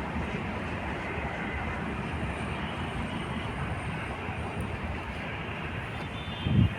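Passenger train rolling along the track with a steady rumble of wheels on rails, and one low thump near the end.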